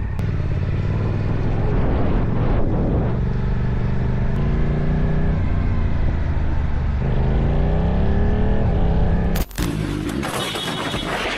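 Vehicle engine running, its pitch climbing as it accelerates from about seven seconds in. About nine and a half seconds in it gives way abruptly to a loud, noisy rush.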